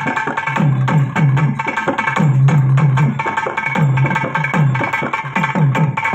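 Tamil melam ensemble playing: rhythmic drum strokes under a sustained reed-pipe melody.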